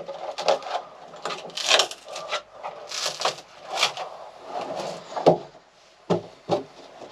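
Wooden boards and panels scraping, rubbing and knocking against each other and the hull as a boat's wooden interior is pulled out by hand, with two sharp knocks near the end.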